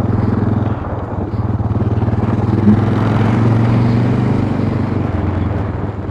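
1988 Honda NX 650 Dominator's single-cylinder four-stroke engine running steadily while riding. The note rises a little partway through and eases off near the end.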